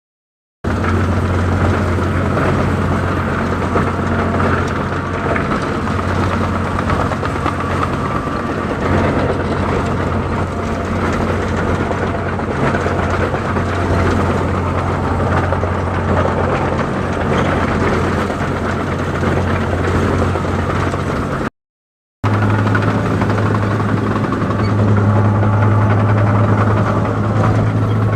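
Diesel engine of a rice combine harvester running steadily, a low even hum. It drops out for about half a second near twenty-one seconds in and comes back a little higher in pitch.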